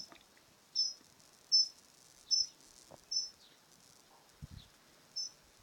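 A bird chirping over and over: short, high-pitched single chirps repeated steadily about once every 0.8 seconds, without a break.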